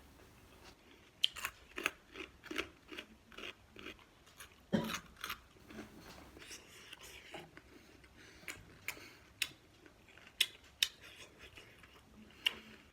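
Close-miked eating sounds: irregular chewing and biting with sharp, crisp clicks and crunches.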